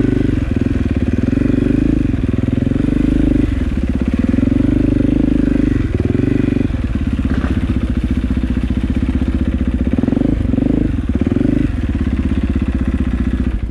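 KTM dirt bike engine running while being ridden, the throttle held open, then eased off and opened again several times, with dips about a third, half and three quarters of the way through.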